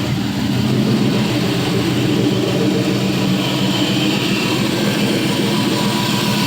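Gen III 4.8L LR4 V8 engine running steadily at idle on an engine test stand, with no transmission attached.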